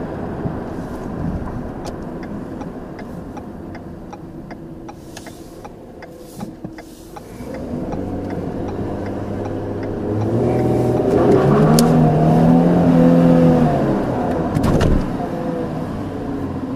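2010 Ford Taurus Limited's DOHC V6 engine, picked up by a microphone on the hood. Road and wind noise while the car coasts, then the engine note builds from about eight seconds in, rises and is loudest as the car accelerates, and eases off near the end.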